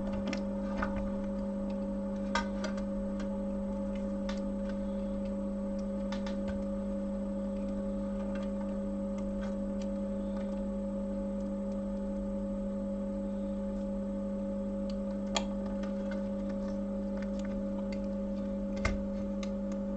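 Steady electrical hum from bench equipment, with a few faint clicks about two seconds in, near fifteen seconds and near the end.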